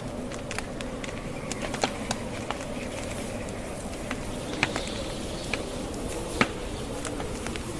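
Wood fire crackling, with irregular sharp pops over a steady low rush; the sharpest pop comes about six and a half seconds in.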